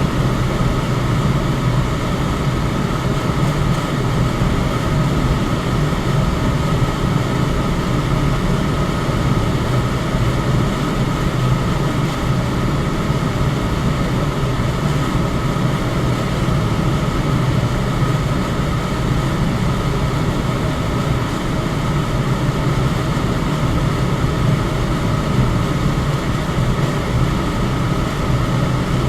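Electric fan running steadily: a deep, even rush of air with a faint steady tone above it.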